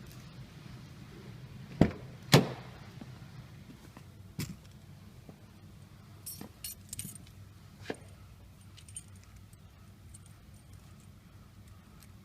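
Two sharp knocks about half a second apart, then car keys jangling with a scatter of small clicks.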